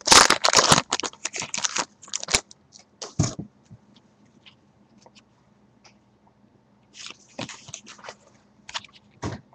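A pack of baseball trading cards being torn open, its wrapper crinkling and crackling for about two seconds, then scattered small clicks and rustles of the cards being handled, with another flurry of crinkling near the end.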